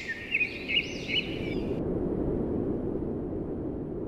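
Birds giving a quick series of repeated high calls that cut off abruptly under two seconds in, followed by a steady low rumble.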